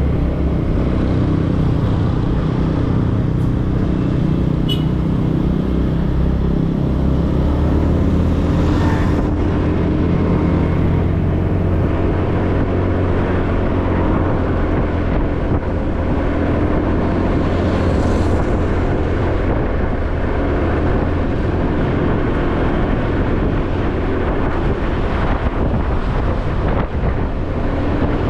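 An ordinary motorbike's engine running steadily while riding, with road and traffic noise. The engine note shifts about six seconds in, and brief swells of noise come about nine and eighteen seconds in.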